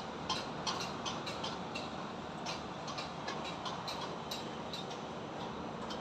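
Construction site ambience: a steady rumble of traffic and machinery, with irregular sharp clicks and taps, a few a second.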